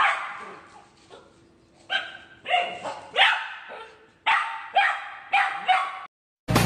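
A dog barking: one bark, a pause of nearly two seconds, then a run of about seven barks that stops shortly before the end.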